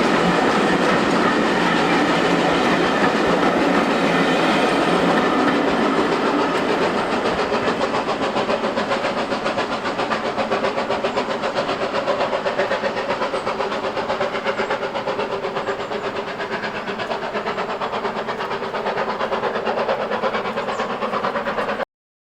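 A train running along the track, its wheels clattering over the rail joints. It gradually fades from about six seconds in, then cuts off abruptly near the end.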